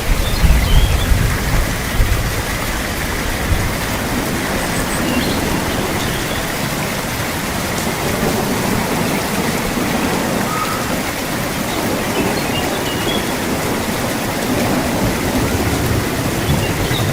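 Steady heavy rain falling, an even hiss of drops on surfaces, with a low rumble of distant thunder in the first couple of seconds that fades away.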